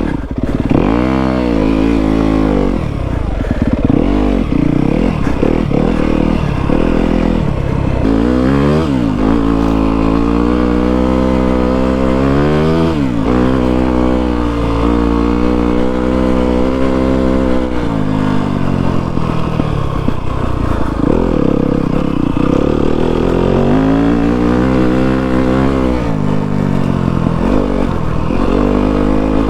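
Yamaha WR250F dirt bike's single-cylinder four-stroke engine under way, its revs rising and falling with the throttle: several quick rev sweeps up and down, with steadier stretches of even running in between.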